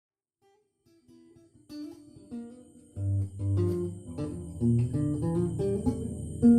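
Guitar music that starts out of silence: a few soft picked notes from about a second in, then a fuller melody over deep bass notes from about three seconds in.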